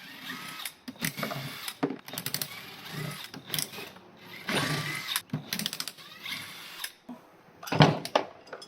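Half-inch ratchet driving a long T30 Torx bit, clicking in quick runs as engine bolts are backed out, with metal clinks and a louder clank near the end.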